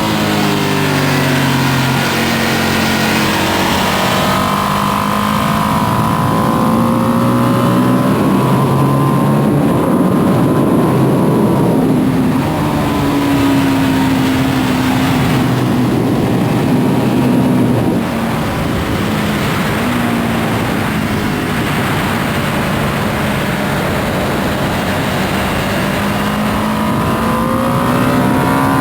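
2025 Ducati Panigale V2S's twin-cylinder engine on its stock exhaust, ridden hard on track: the engine note falls and climbs again as it brakes, shifts and accelerates. Heavy wind rush builds over the engine at speed.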